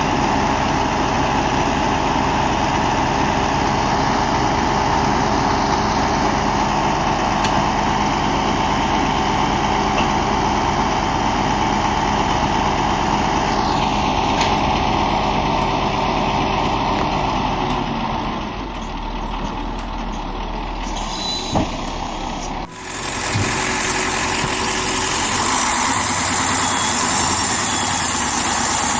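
Heavy diesel truck engine running steadily. About two-thirds of the way in it eases off, and a few seconds later the sound cuts abruptly to another engine running with more hiss.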